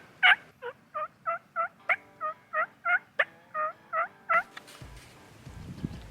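Turkey yelping: a steady run of short, rough notes about three a second, the later ones softer. It stops about four seconds in and gives way to a low rumbling noise.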